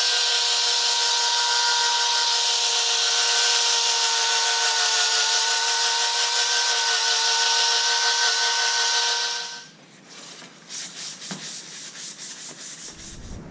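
Electric angle grinder running steadily at full speed against the metal of a welded exhaust pipe, cleaning it up with a high, even whine. The grinder shuts off about ten seconds in, leaving a few quieter scrapes and knocks of handling.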